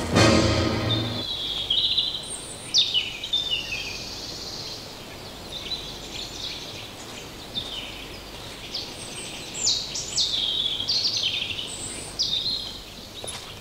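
Songbirds singing, a string of quick chirps and short whistled notes that come and go, after music stops about a second in.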